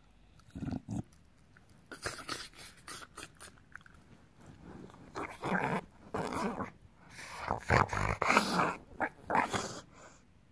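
English bulldog making a run of short, noisy vocal sounds, growl-like, in irregular bursts that come thickest and loudest in the last few seconds.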